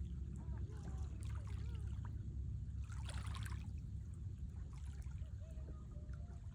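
Lakeside ambience: a steady low rumble with a brief splash of water about three seconds in, and faint distant calls.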